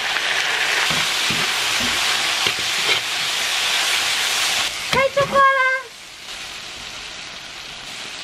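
Pork belly slices and green chili peppers sizzling hard in a hot wok as a metal ladle stirs them, with a few light knocks of the ladle. About six seconds in, the loud sizzle drops to a quieter steady hiss.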